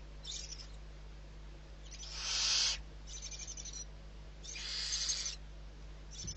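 Barn owl giving two long, harsh hissing calls, with shorter rasping, stuttered bursts before each.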